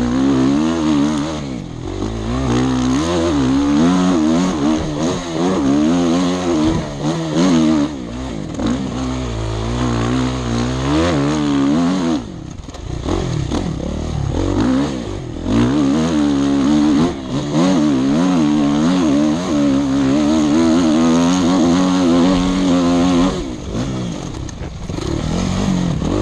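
Motorcycle engine running hard around a lap, heard from the rider's helmet. Its pitch repeatedly climbs and falls as the throttle opens and closes, and it drops away briefly a few times.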